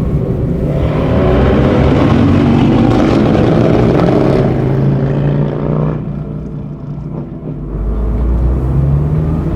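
2006 Honda S2000's 2.2 L F22C1 four-cylinder engine accelerating hard, its pitch climbing for a few seconds; it falls away about six seconds in and begins pulling again near the end.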